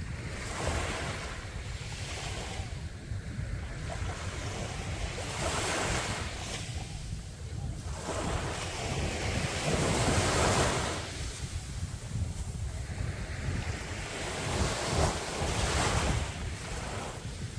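Sea waves breaking on a beach, the surf swelling and falling back in several surges, with wind rumbling on the microphone.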